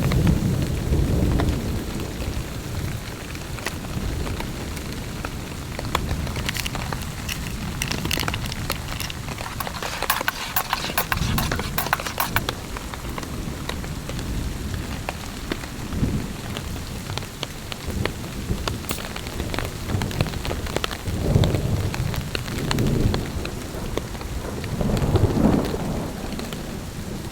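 Heavy rain pattering steadily on a tarp, with a run of sharper taps near the middle. Low rolls of thunder swell at the start, about three-quarters of the way through and again near the end.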